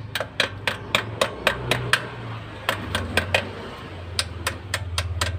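A hammer striking metal in quick repeated blows, about three to four a second, in three runs broken by short pauses, over a steady low hum.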